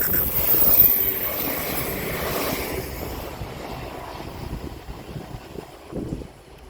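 A train passing at speed, its rushing rail noise loudest about a second in and then fading steadily as it moves away.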